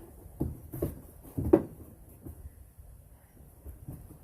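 Knocks and bumps of a stiff plastic interior trim panel being handled and worked into place inside a pickup cab, with the loudest knock about one and a half seconds in.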